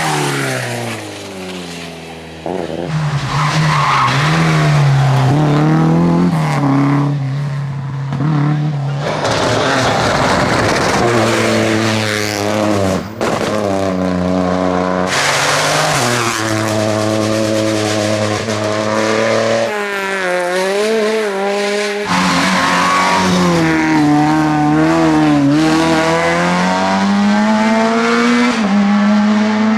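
Rally car engines at full throttle, revving up and falling back through quick gear changes and lifts off the throttle, one car after another.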